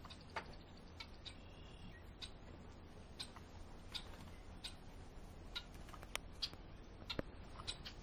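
Faint, irregular sharp ticks and clicks, a few each second, around small birds feeding at a wooden feeder, with one brief high chirp from a small bird about one and a half seconds in.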